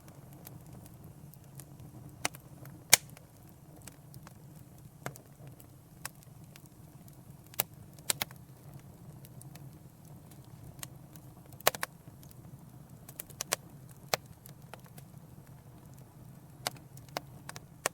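Wood fire crackling in a fireplace: a steady low rumble of the flames with sharp, irregular pops and snaps every second or so, the loudest about three seconds in.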